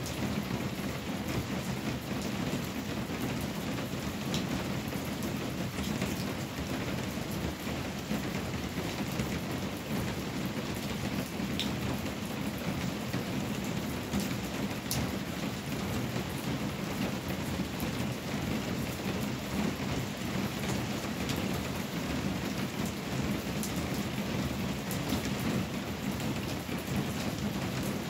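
Steady rain falling on a corrugated tin roof: an even hiss with scattered sharper drop ticks standing out here and there.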